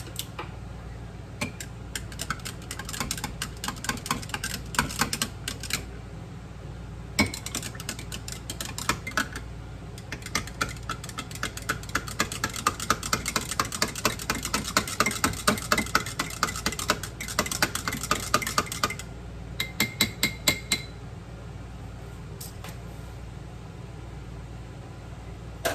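A utensil stirring a drink in a glass, clinking rapidly against the sides in several bouts of quick, even clicks.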